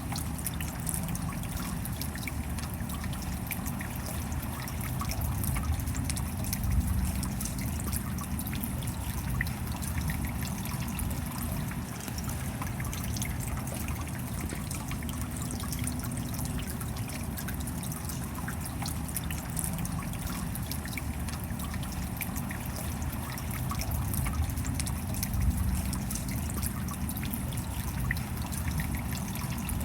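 Steady rain: a continuous wash of falling water with many separate drop hits ticking over it.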